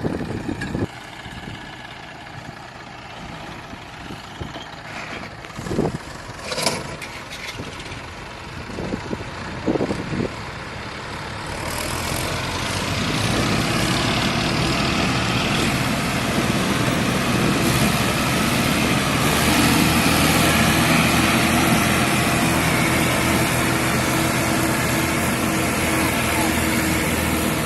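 Diesel tractor engines running, with a few short knocks in the quieter first half. About halfway through, the engine sound grows loud and steady, as the tractors work under load to pull the stuck tractor out of the sand.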